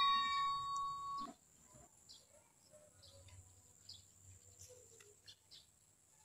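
A ding sound effect fades out over about the first second, then it is nearly silent apart from faint, scattered bird chirps.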